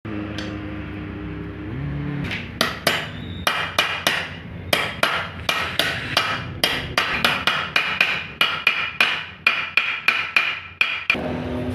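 A hammer striking metal over and over at about three to four blows a second, each blow with a short metallic ring. A steady hum comes before the hammering starts, about two seconds in, and the blows stop shortly before the end.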